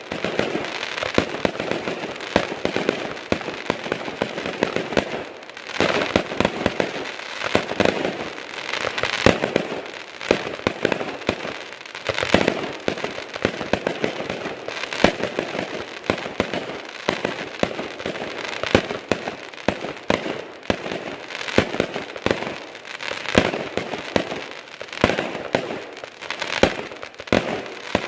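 Aerial fireworks going off in quick succession: a continuous barrage of sharp cracks and bangs with crackling in between, a few louder reports standing out.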